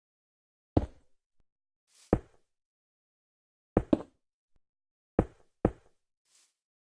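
Six sharp knocks at uneven intervals, two of them in quick pairs, each ringing briefly, with faint hissing crackles in between.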